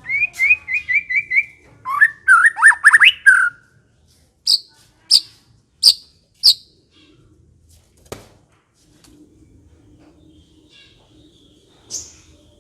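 White-rumped shama (murai batu) singing. It opens with a fast run of about seven repeated notes, then a quick string of sweeping whistles, then four sharp high notes spaced well under a second apart; a single click comes about eight seconds in and one more high note near the end.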